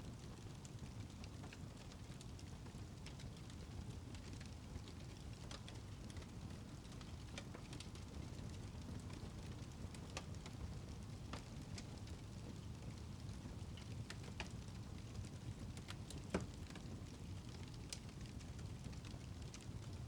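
Wood fire crackling in a fireplace: scattered small crackles and pops over a steady low rumble, with one louder pop about sixteen seconds in.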